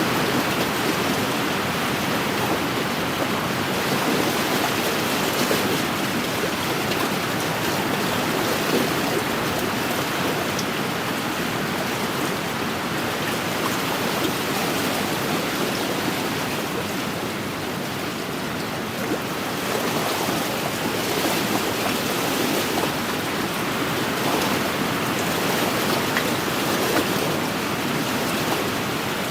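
Wind-driven lake waves washing against the shore: a steady, continuous wash that swells and eases slightly, a little softer a little past the middle.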